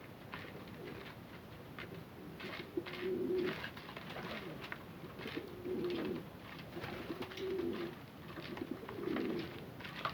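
Domestic fancy pigeons cooing: four low coos, each under a second, spaced about two seconds apart, with light clicking or tapping sounds in between.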